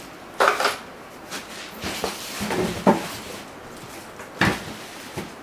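Handling noises: a few short knocks and scrapes as pressure-washer parts are picked up and moved, the loudest about half a second in.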